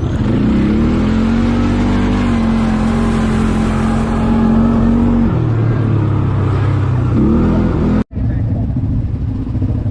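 ATV engine under throttle: it revs up and holds a steady pitch, drops back to a lower note about five seconds in, and rises again. Near the end the sound cuts out for an instant, and the engine runs lower afterwards.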